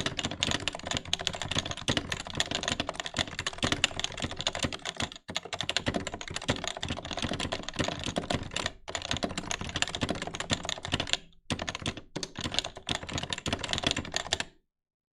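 Fast continuous typing on an HHKB Pro 2 keyboard with 45 g Topre electro-capacitive dome switches: a dense run of keystrokes broken by a few short pauses, stopping just before the end.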